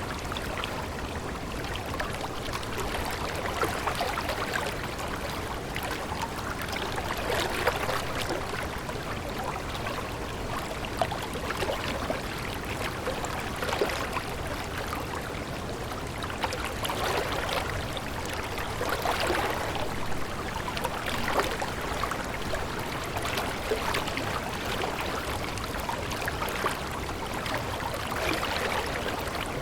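Steady babbling of running water in a stream, with many small splashes and gurgles throughout.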